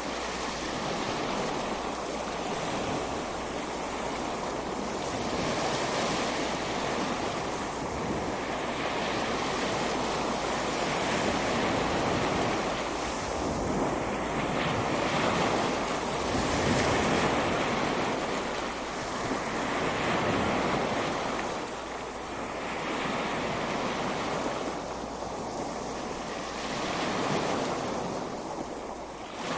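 Ocean waves breaking and washing on a beach, a steady surf that swells and eases every few seconds, with wind on the microphone.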